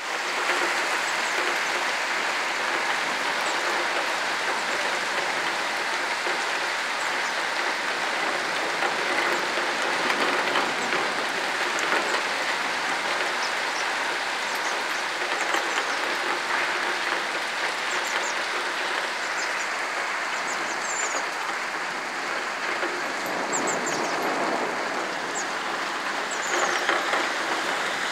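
Heavy downpour of rain pouring steadily onto paving and trees, a dense even hiss.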